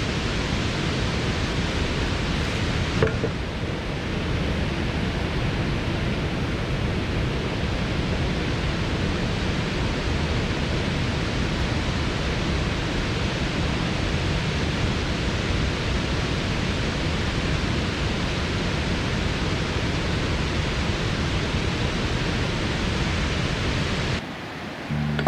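Waterfall rushing: a steady, even roar of falling water with no let-up, dropping away about a second before the end.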